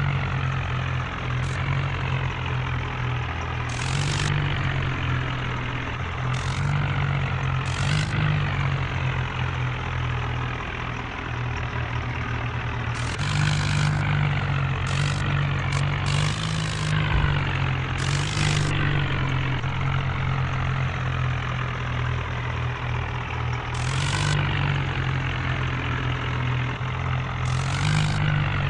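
Modified John Deere tractor's diesel engine running steadily with a heavy low drone, with several short hisses breaking in over it.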